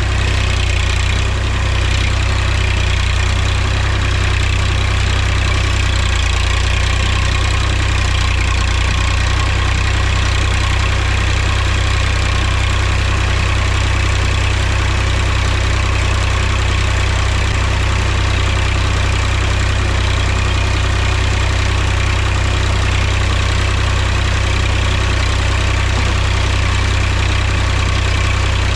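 Mahindra tractor's diesel engine running steadily, a constant low drone that holds the same speed throughout.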